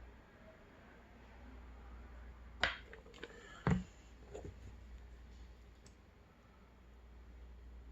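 Close-miked eating of a durian cookie: quiet chewing with a few sharp mouth clicks or crunches, the loudest two about three and four seconds in, over a steady low hum.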